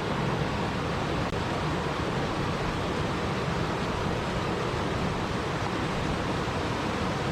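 Steady, even water noise that holds without any distinct splashes, drops or other events.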